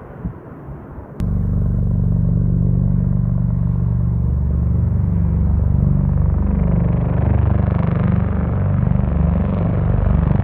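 A low-flying military aircraft passing, a loud steady engine rumble that starts abruptly about a second in and holds, with a sweeping, shifting character as it moves past.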